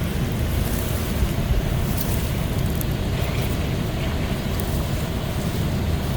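Steady low rumble of wind buffeting the microphone outdoors, with a few faint high clicks.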